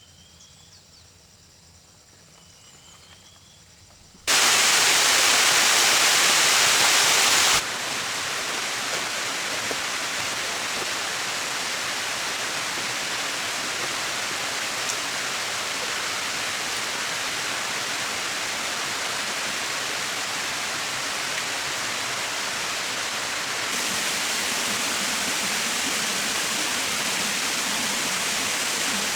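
Quiet outdoor background with a few faint chirps, then rushing water cuts in suddenly, loudest for about three seconds, and runs on as a steady rush that gets a little louder near the end.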